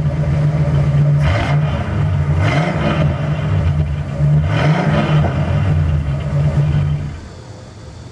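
Ford 460 cubic-inch (7.5 L) big-block V8 of a 1978 Lincoln Mark V idling through Thrush Turbo mufflers, revved briefly three times with the pitch rising each time. The engine sound drops away sharply about seven seconds in.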